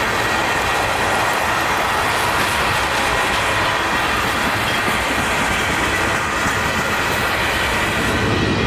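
Freight train rolling past the crossing: a steady, loud rumble of wheels on rail with clickety-clack, and a faint steady high tone over it.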